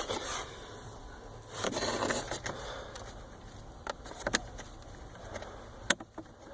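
Plastic clicks and a short scraping rustle as the latch of a Jeep Wrangler's cabin filter access door is pulled up and the door opened, with a few sharp clicks later on.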